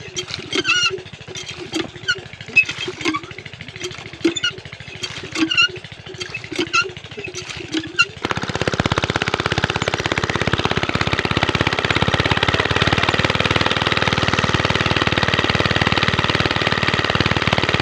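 Small Chinese diesel engine driving a village water pump, running slowly with uneven chirping knocks every half second or so. About eight seconds in it picks up sharply to full power and runs on as a loud, steady hammering clatter.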